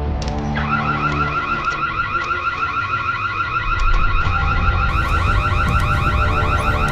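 Electronic alarm sound effect: a fast, repeating rising warble that starts about half a second in, over a low rumble.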